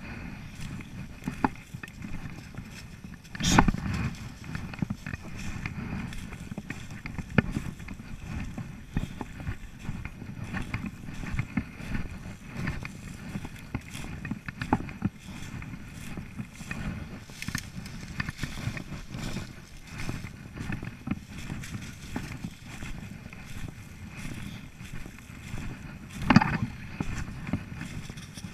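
Irregular footsteps and rustling on rough outdoor ground, with a louder knock about three and a half seconds in and another near the end.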